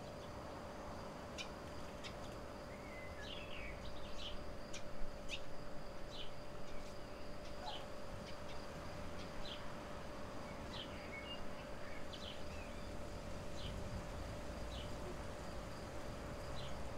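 Small birds chirping in short, quick calls, scattered irregularly, over a steady hum.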